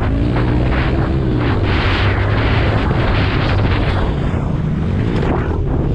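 Small 110cc four-stroke pit bike engine revving hard, its pitch rising and falling as it runs, under heavy wind noise on the helmet-mounted microphone.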